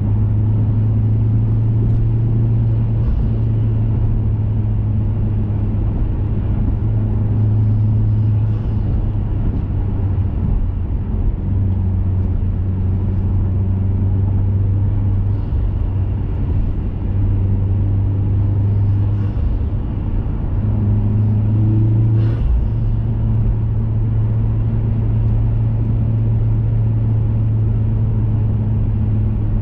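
2021 Mazda 3 Turbo's turbocharged 2.5-litre four-cylinder, through an aftermarket 80mm cat-back exhaust and high-flow intake, running at a steady cruise with an even low drone. The drone eases briefly a few times, and there is one short knock about 22 seconds in.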